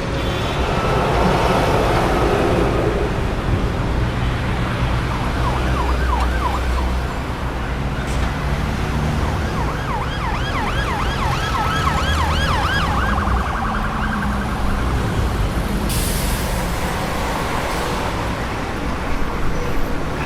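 Street traffic with a steady engine and tyre rumble. An emergency-vehicle siren cuts through it in a fast yelp, rapidly rising and falling several times a second: a short stretch about five seconds in, then a longer one about ten seconds in. A brief hiss comes near the end.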